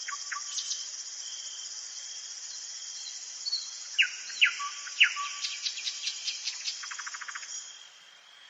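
Nightingale singing: a few whistled notes, then loud sharp down-slurred notes about four seconds in, a fast run of clicking notes, and a short buzzing rattle near the end. A steady high-pitched chirring of insects runs behind it and drops away near the end.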